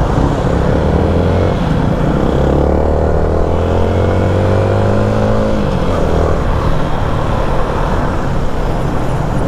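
Yamaha motorcycle engine pulling under throttle while riding, its pitch climbing steadily for several seconds and then dropping sharply about halfway through as the throttle eases, over a steady rush of wind and road noise.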